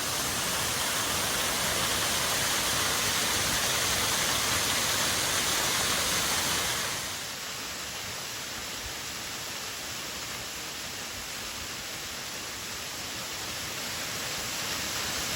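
Waterfall pouring close by, a steady rushing noise. It drops abruptly in loudness about seven seconds in and stays lower after that.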